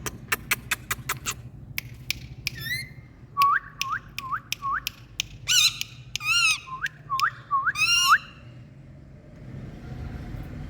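Two Indian parrots calling. First comes a quick run of sharp clicks, then a series of short upward-hooked whistles mixed with a few harsher, buzzier calls. The calling stops a couple of seconds before the end.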